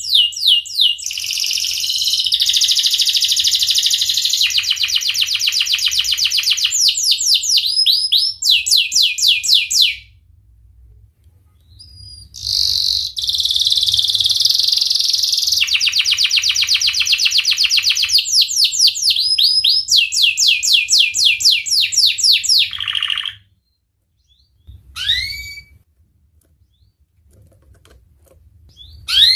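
Domestic canary singing long rolling phrases of rapid trills and fast repeated sweeping notes, in two bouts of about ten seconds each with a short pause between, then a few single chirps near the end.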